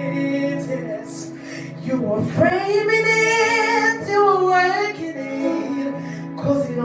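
Spontaneous worship singing: a voice holding long, drawn-out wordless notes that bend and waver, over a steady low sustained chord from an accompanying instrument.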